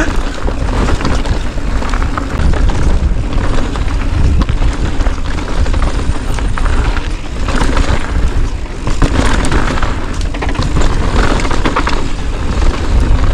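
Heavy wind rumble and buffeting on an action camera's microphone while riding at speed, a loud continuous low roar with no clear pitch.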